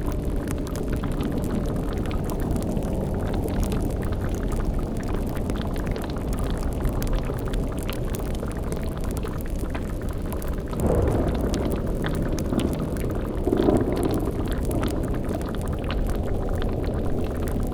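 Layered spooky ambience: a cauldron bubbling over a steady low rumble, with two brief louder swells about eleven and thirteen and a half seconds in.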